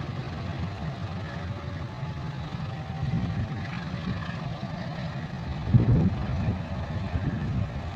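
Diesel locomotive running: a steady low rumble, with a short, louder thump about six seconds in.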